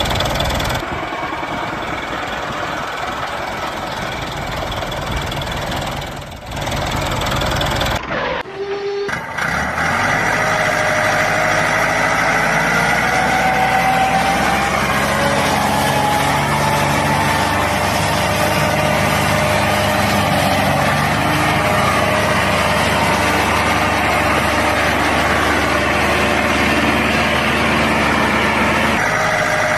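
A small engine or motor running steadily, with an abrupt break about eight seconds in, after which it carries on with a busier, wavering whine.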